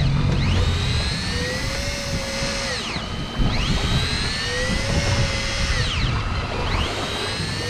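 Electric fishing reel motor whining as it winds in line. Its pitch climbs, holds, then drops away about every three seconds, over a low rumble.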